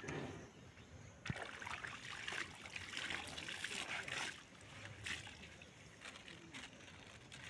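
Water trickling and splashing, as from wet hand-washed laundry, with one sharp knock about a second in.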